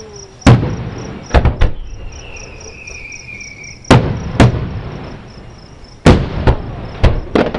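Aerial fireworks shells bursting about a mile off: about nine sharp bangs, several in quick pairs. Crickets chirp steadily underneath, and a high whistle falls in pitch for about two seconds before one of the bangs.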